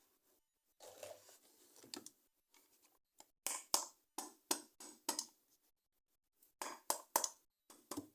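Plastic toy packaging being handled, in short bursts. There is a scuffing stretch about a second in, then a quick run of sharp clicks and crackles, and another cluster near the end.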